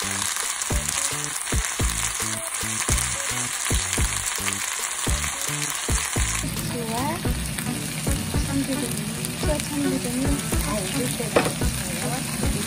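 Pork belly and vegetables in a red pepper paste marinade sizzling as they stir-fry in a pan, with a spatula scraping and turning them. The sizzle eases about halfway through, leaving more of the stirring and scraping.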